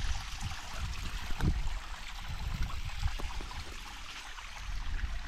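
Stream water running and trickling in a steady hiss, with irregular low rumbles underneath.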